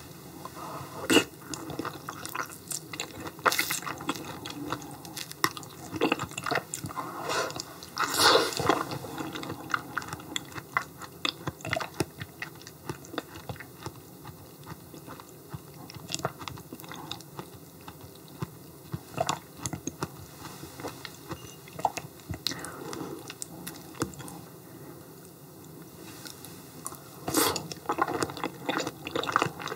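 Close-miked chewing and mouth sounds of someone eating yellow stingray liver, irregular with many short sharp clicks. There are louder bursts about a second in, around eight seconds in, and near the end.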